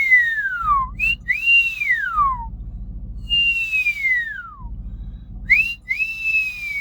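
A person whistling: four long pitch glides that slide from high to low, two of them opening with a quick upward swoop like a wolf whistle. A low rumble runs underneath.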